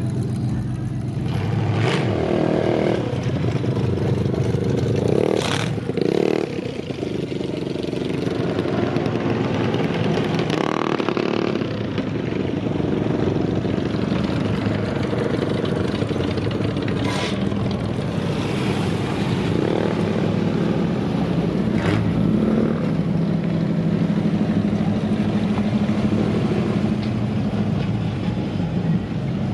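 Engines of cars and motorcycles running and revving as they roll past in a parade. A few sharp clicks or knocks come through over the steady engine sound.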